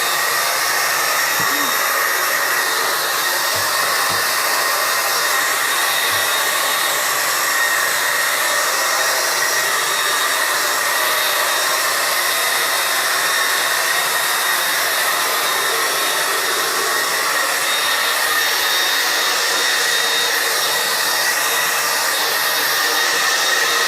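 Dog dryer running steadily on its high setting, blowing air over a wet dog after its bath. It makes an even rush of air with a faint high whine.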